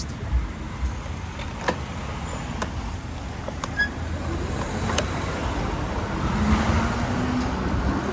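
Road traffic noise with gusty wind rumble on the microphone. A motor vehicle passes, swelling about six to seven seconds in with a faint engine hum, and a few light clicks come through along the way.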